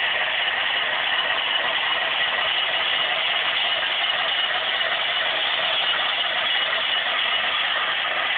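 HO-scale Broadway Limited Baldwin Centipede diesel model running under DCC, its onboard sound playing a steady diesel engine drone through a small speaker with little bass.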